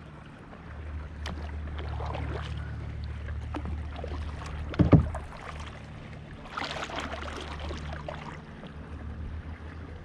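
Patrol boat motor running with a low, steady hum as the boat comes up to the kayaks. A sharp knock about five seconds in, and a short rush of water splashing a little later.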